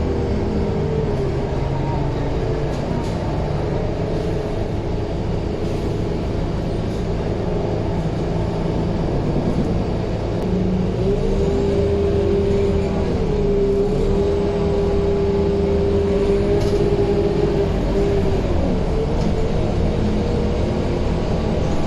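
Scania K230UB bus running on the road, its diesel engine pulling steadily. About halfway through a steady whine rises in, holds for several seconds and fades away a few seconds before the end.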